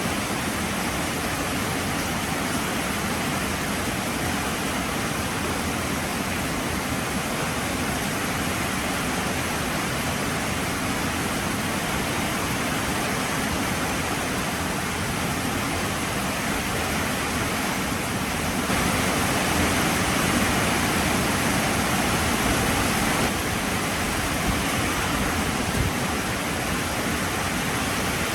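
Heavy rain falling steadily, a dense even hiss, swelling a little heavier for a few seconds about two-thirds of the way through.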